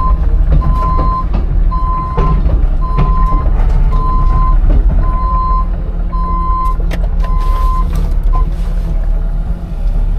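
CAT 306 mini excavator's diesel engine running, with its travel alarm beeping about once a second while the machine moves; the beeping stops about eight seconds in. Occasional clanks and knocks over the engine.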